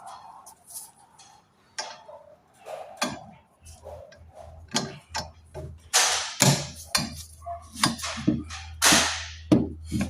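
Hand-tool clicks and metal-on-metal knocks as a 1/2-inch ratchet works a broken exhaust-manifold stud in a VW cylinder head, the strokes irregular and getting louder and more frequent from about six seconds in; the socket rounds the stud off. A low steady hum joins about three and a half seconds in.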